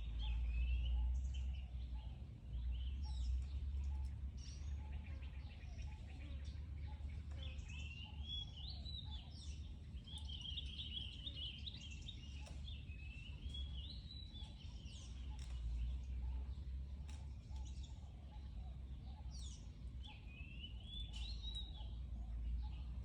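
Birds chirping and warbling in short repeated phrases, over a steady low rumble.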